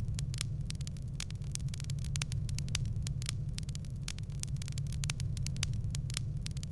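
Wood fire crackling in a fireplace: many sharp, irregular pops and snaps over a steady low rumble of the burning logs.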